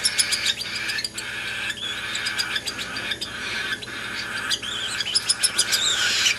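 Baby cockatiel chick's rasping, hissing food-begging calls while being hand-fed, pulsing with short breaks about every two-thirds of a second, with bursts of sharp clicks.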